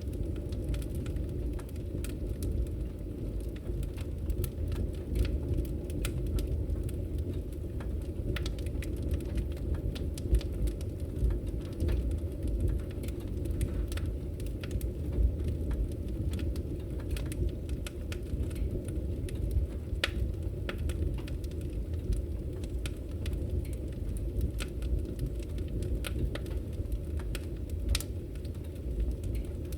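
Firewood burning: a steady low rumble from the fire with frequent sharp crackles and pops, a few of them louder.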